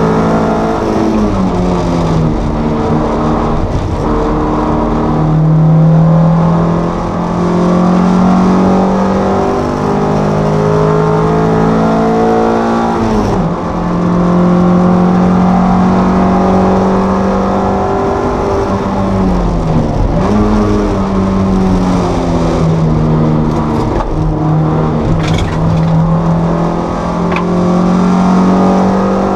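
Toyota MR2 race car engine heard from inside the cabin at racing speed, the engine note held high and climbing slowly, with three sharp falls in pitch as the revs drop. Road and wind noise run underneath.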